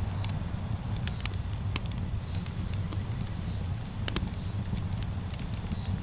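Campfire burning: irregular sharp pops and crackles over a steady low rumble of the flames, with a faint short high chirp about once a second.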